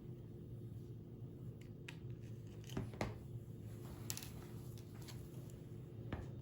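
Light handling sounds: a few scattered clicks and rustles, the sharpest about three seconds in, over a steady low hum.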